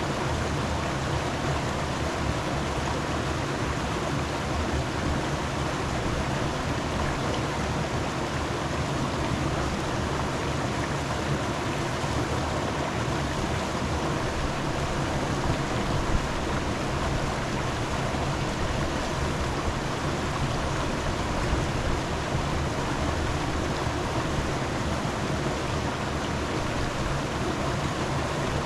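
Steady rushing of running water, an even noise that does not let up.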